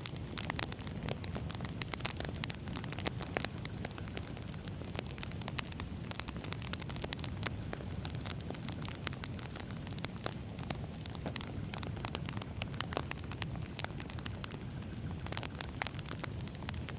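Burning wood fire crackling steadily, with many sharp pops and snaps over a low rumble of the flames.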